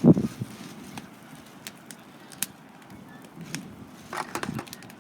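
Wood campfire crackling with scattered sharp pops, with a loud dull thump right at the start and a few softer knocks about four seconds in.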